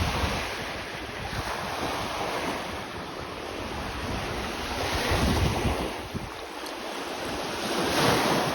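Lake waves washing onto a sandy shore, surging louder about five seconds in and again about eight seconds in, with wind buffeting the microphone.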